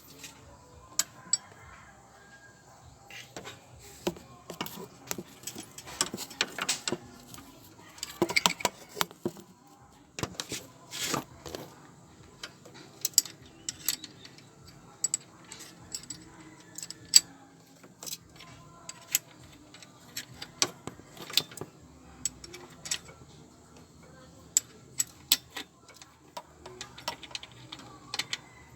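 Metal hand tools clicking and clinking against engine parts in irregular sharp clicks, some in quick clusters, as a 12 mm wrench works at loosening the alternator adjuster bolt.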